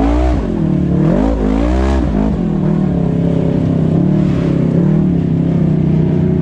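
Side-by-side UTV engine revving: two sharp rises and falls in pitch in the first two seconds, then running steadier with two smaller rises before settling into a steady drone.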